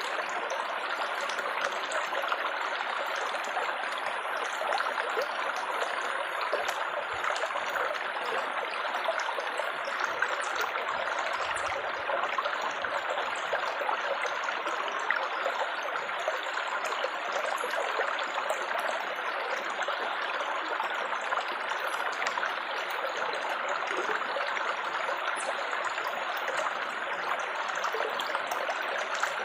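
Water babbling and trickling steadily, like a small stream over stones, with an even, unbroken flow.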